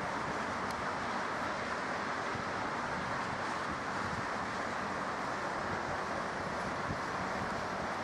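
Steady roar of jet aircraft engines at an airport, an even noise with no change in level.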